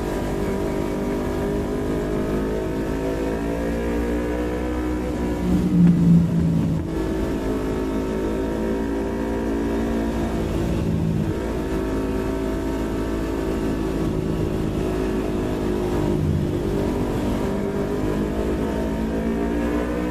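Yamaha MT-25's 250 cc parallel-twin engine pulling the bike along: the pitch climbs slowly through each gear and drops back at shifts about 6, 11 and 16 seconds in. There is a brief louder burst about six seconds in, with steady wind rumble underneath.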